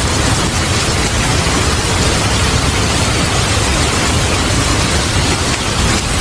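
Heavy rain falling steadily as an even hiss, with a deep low rumble of thunder underneath.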